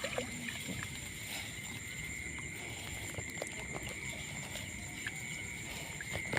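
Steady outdoor chorus of insects, two high drones held at an even pitch, with scattered faint small clicks and knocks.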